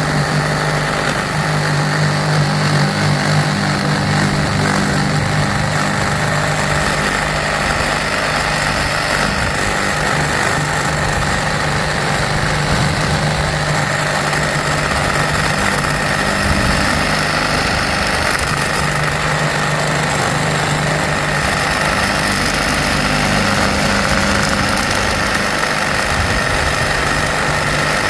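Bauer 20-volt compact brushless reciprocating saw with a 9-inch Diablo pruning blade running steadily, sawing through a tree stump.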